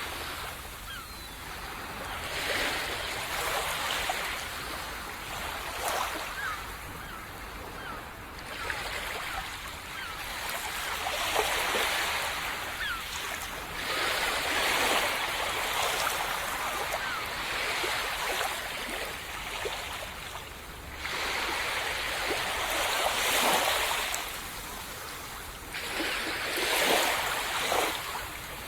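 Calm sea surf on a sandy beach: small waves breaking and washing in, surging every few seconds, with foam fizzing as the water runs up the sand.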